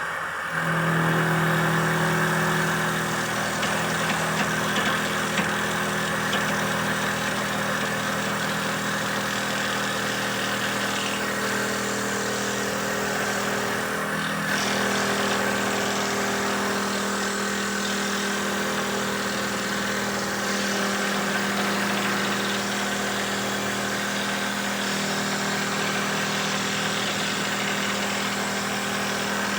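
Motor of a simple handmade wooden dowel-making machine running steadily, its hum shifting slightly in pitch about halfway through.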